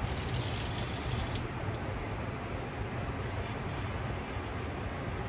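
Kitchen tap running, then shut off suddenly about a second and a half in, leaving a steady low hum.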